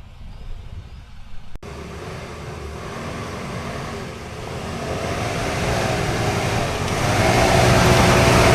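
Off-road vehicle's engine pulling under load up a steep dirt slope, growing steadily louder, its pitch wavering and then holding steady near the end.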